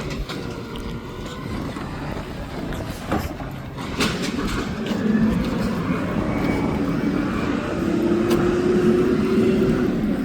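Garbage truck working, with a few sharp knocks, then its engine revving up to run the hydraulics: a low tone climbing in pitch and holding from about halfway in.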